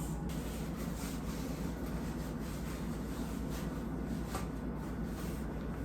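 Steady low background hum, as of an appliance or air handling, with a few faint light clicks and rubbing of things being handled.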